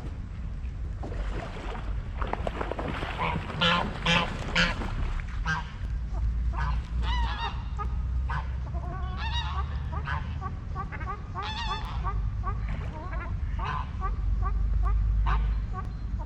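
Waterfowl calling: a run of many short, nasal, honking calls in quick succession, loudest and densest a few seconds in, over a steady low rumble.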